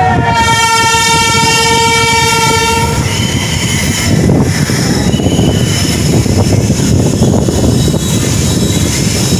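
Express train's horn sounding one steady note for about three seconds, then the loud rumble and rattle of the train running along the track, heard from the coach doorway, with two brief high squeals.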